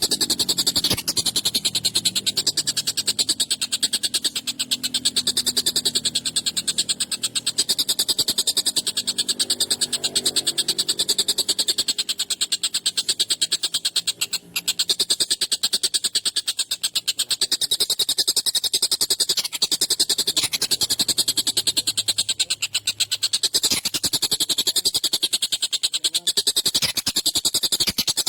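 Tengkek buto kingfisher giving a harsh, very rapid rattling chatter, kept up without pause apart from one brief break about halfway.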